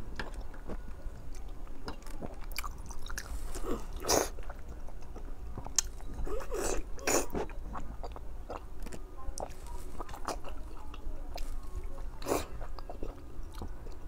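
Close-up eating sounds: biting and chewing soft, fatty braised pork belly, a run of small mouth clicks with a few louder bites or smacks spread through.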